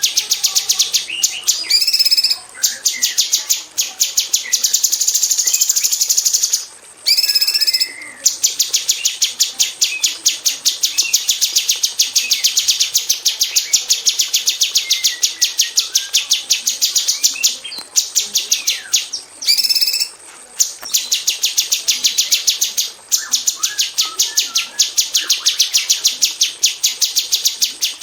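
Female orange-bellied leafbird (cucak cungkok) singing a rapid-fire run of sharp, closely packed repeated notes, many to the second, broken a few times by brief pauses with longer, clearer notes.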